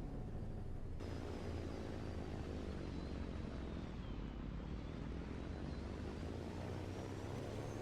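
A steady engine drone, with a hiss that grows brighter about a second in and a faint, wavering high whine above it.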